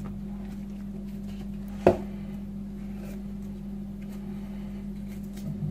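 Boning knife cutting and scraping along lamb ribs to trim off cartilage and fat: faint scrapes and clicks, with one sharp knock about two seconds in, over a steady low hum.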